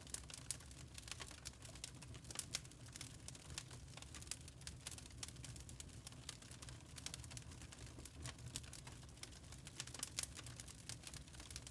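Burning charcoal crackling, with faint, irregular small clicks and pops over a low steady background.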